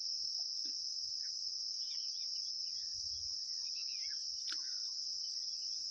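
Steady high-pitched trill of crickets, with a few faint clicks and taps; one sharper click about four and a half seconds in.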